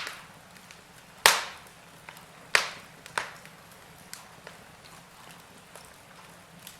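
Wood fire burning in a fireplace, crackling with sharp, irregular pops: a loud one about a second in, two more around two and a half and three seconds in, and fainter snaps scattered between.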